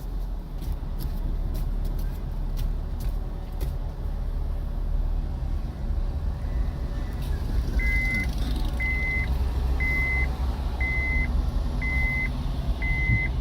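Vehicle engine running with a low rumble while a car moves slowly, with a few sharp clicks in the first seconds; from about eight seconds in, six evenly spaced high reversing beeps come about one a second as a vehicle backs up.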